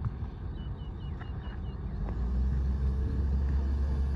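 Bulldozer's diesel engine running with a steady low rumble that grows louder about two seconds in. A quick run of six short high chirps sounds over it in the first two seconds.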